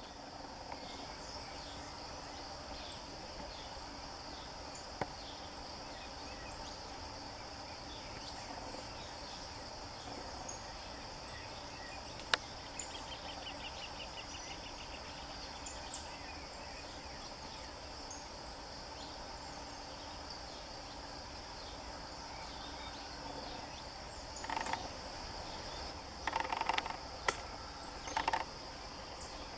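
Steady high-pitched insect drone, with a few sharp clicks and, near the end, three short louder bursts.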